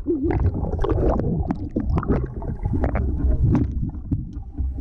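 Pool water splashing and churning close to the microphone, with irregular sharp splashes over a constant low rumble.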